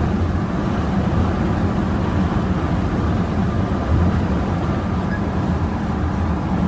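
Bus travelling at speed, a steady low engine and road rumble.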